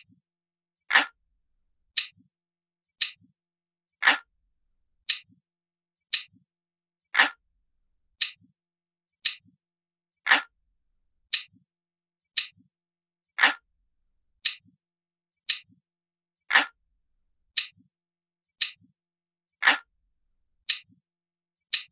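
Glass-like clock ticking sound effect, one crisp tick every second, with every third tick fuller and lower than the two between.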